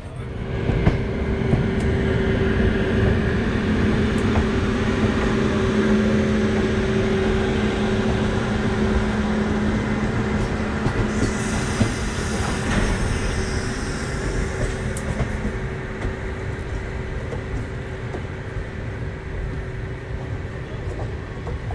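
Two trains passing on neighbouring tracks, heard from the open door of one of them: an electric locomotive hauling a container freight train goes by, with rumbling wheels on rail and a steady hum. The noise jumps up suddenly at the start and eases off after about sixteen seconds as the wagons continue past.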